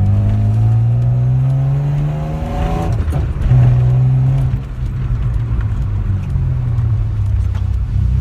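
Mazda MX-6's 2.5-litre V6 accelerating through a straight-piped exhaust with an aftermarket muffler: the revs climb, fall with an upshift about three seconds in, climb again, fall with another shift near five seconds, then hold fairly steady.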